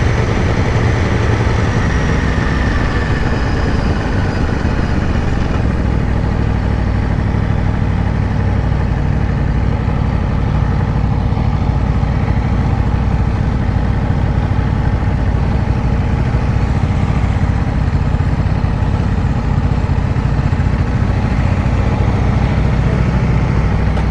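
The 2022 Aprilia Tuono V4 Factory's V4 engine runs at low revs. Its pitch falls a little over the first few seconds as the bike slows, then it holds steady.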